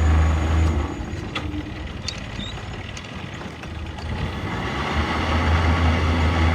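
Sailboat's inboard auxiliary engine running, given short bursts of throttle: about a second of it at the start, then a longer push from about five seconds in, as the boat is driven forward and astern to turn in its own length.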